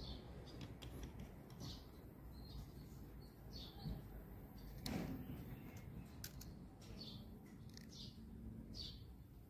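Faint chirps from wild birds, short calls repeated every second or so over a quiet hiss. A single sharp click comes about five seconds in.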